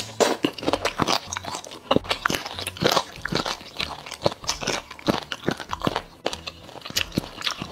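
Close-miked chewing of sauced octopus tentacle: wet, sticky mouth sounds with many quick irregular clicks and smacks.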